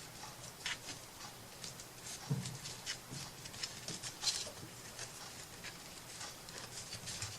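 Faint handling noise: soft rustles and small scattered taps as lace trim and small craft pieces are picked up and laid against a wooden shadow box, with a soft knock about two seconds in.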